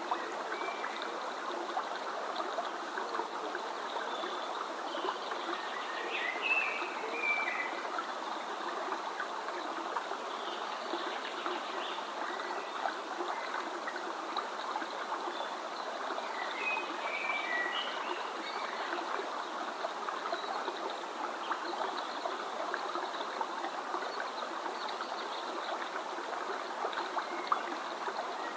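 A stream running steadily, with birds chirping briefly three times: about a quarter of the way in, a little past halfway, and at the very end.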